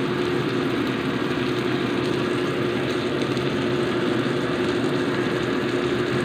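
Sliced onion, tomato and chilli frying in oil in a wok: a steady sizzle with a constant hum under it.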